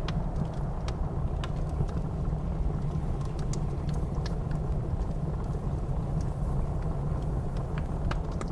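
Wood fire crackling, with scattered sharp pops, over the steady low rumble of blizzard wind.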